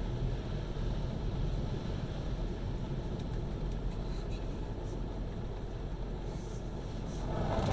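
Steady low rumble heard from inside a car in an automatic car wash, with a few faint ticks, growing louder near the end.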